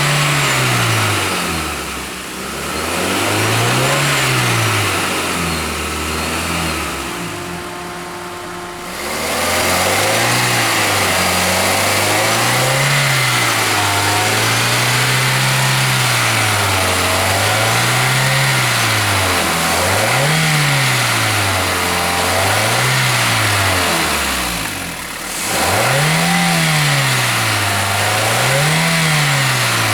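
2007 Toyota Matrix's 1ZZ-FE engine being blipped in a series of short revs every two to three seconds, each rising and falling in pitch. A loud, high-pitched whine that tracks engine speed and almost sounds like a centrifugal supercharger appeared after a clutch, pressure plate and throw-out bearing replacement. It stays when the serpentine belt is off, so it is not an accessory pulley bearing.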